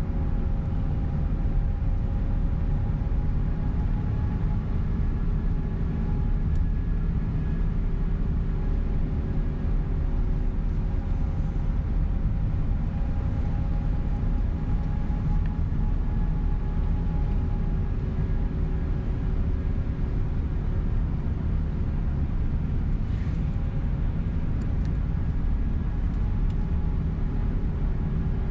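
Steady drive noise inside a coach bus cabin on the move: a constant low rumble of engine and tyres with a few faint held droning tones over it.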